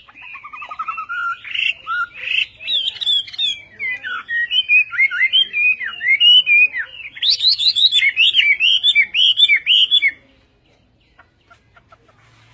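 Hwamei singing a long, fast, varied song of whistled and warbled notes that stops about ten seconds in.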